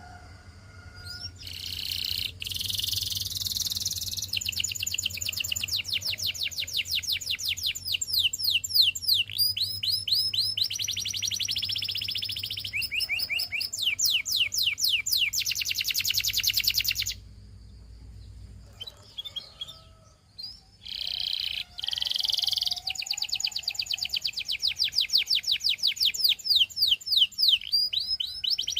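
Domestic canary singing, long runs of rapid trills and repeated down-sweeping notes, with a pause of a few seconds in the middle before the song resumes.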